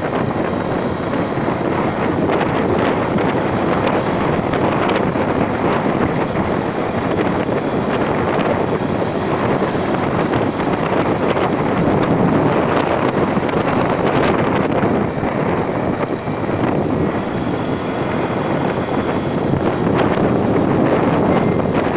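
Loud, steady wind rushing over the microphone during a ride, with a vehicle running underneath.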